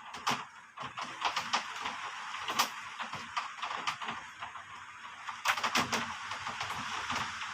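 Heavy rain falling: a steady hiss with many sharp, irregular taps of drops, growing louder and denser about two-thirds of the way through.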